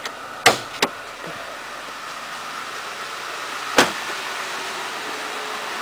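2010 Ford Ranger's 2.3-litre inline four-cylinder engine idling steadily, with a few sharp clicks and a clunk as the hood is unlatched and raised.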